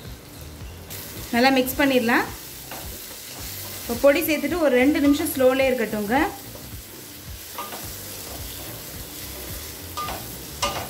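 Brinjal frying in oil in a kadai while ground masala powder is stirred through with a spatula, a steady sizzle under the stirring. The spatula scraping the pan gives loud wavering squeals at about a second and a half and again from about four to six seconds in.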